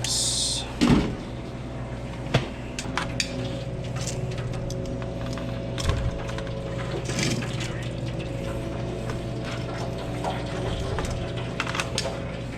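Commercial kitchen line: a steady hum of running kitchen equipment under scattered light clicks and clatter of containers and utensils, with a short hiss right at the start and another about seven seconds in.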